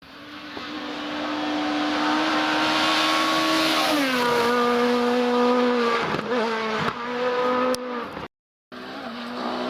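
Rally car engine running at high revs, getting louder as the car approaches. Its note drops about four seconds in and breaks off briefly twice a couple of seconds later, then the sound cuts out and comes back with the engine still running at high revs.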